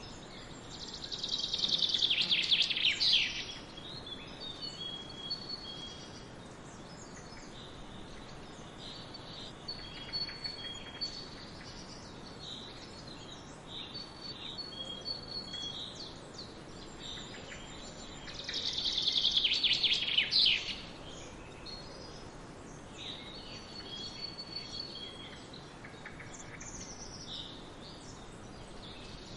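Songbirds singing in a forest: two loud, rapid trilled song phrases about 17 seconds apart, with softer short chirps between them, over a steady background hiss.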